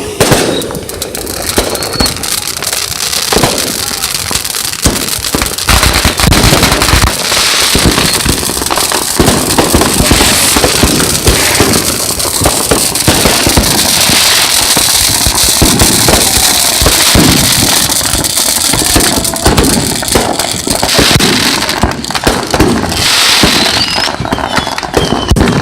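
Firecrackers going off without pause: a dense, rapid crackle of bangs, as from strings of firecrackers, growing louder and denser about six seconds in.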